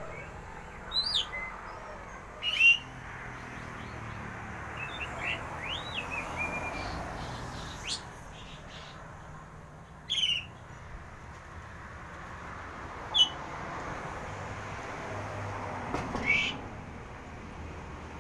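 Wild birds calling: a handful of short, sharp calls that sweep steeply in pitch, a few seconds apart, with softer chirps between them, over a steady background hiss.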